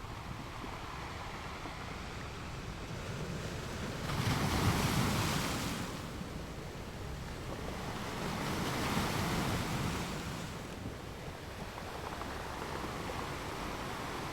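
Ocean waves breaking on a beach: a steady surf wash that swells twice, about four and eight seconds in, as waves break.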